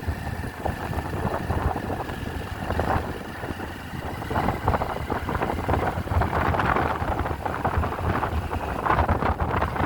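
Motorcycle engine running as the bike is ridden, a steady low rumble with road and wind noise on the microphone.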